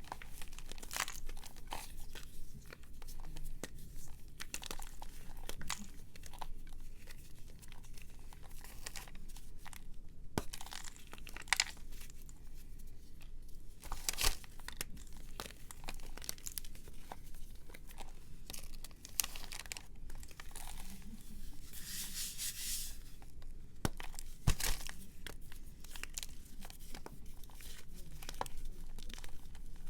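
A brittle, powdery material being crumbled and crunched by hand, with dense irregular crackling and a few sharper snaps about a third of the way in, near the middle and past three quarters, plus a longer rustling stretch a little after two thirds.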